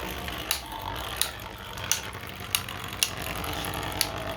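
Two 3D-printed beyblades spinning against each other in a stadium: a steady whirring broken by sharp clicks as they collide, about six hits in four seconds.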